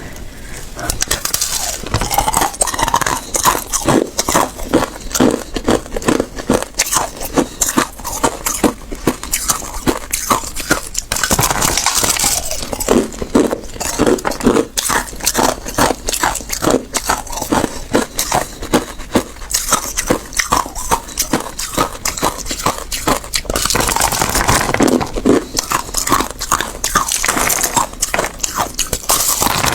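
Close-up crunching and chewing of hard ice in the mouth: a rapid, continuous run of sharp cracks and crunches as the cubes are bitten and ground down.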